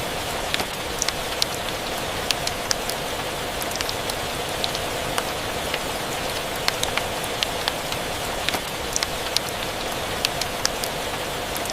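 Steady rain mixed with a crackling fireplace: an even hiss of rain with sharp, irregular pops several times a second.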